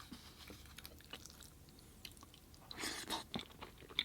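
Close-miked chewing: soft, wet mouth sounds and small clicks, with a louder burst of chewing about three seconds in.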